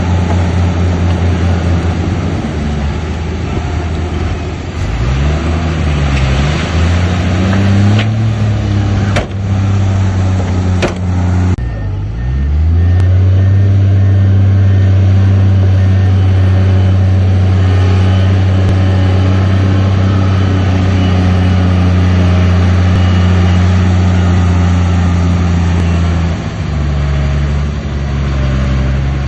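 Heavy earthmoving machine's diesel engine working hard, its pitch dipping and recovering several times, with a few sharp clanks about eight to eleven seconds in. From about twelve seconds in it holds a steady high rev for some fifteen seconds, then drops near the end.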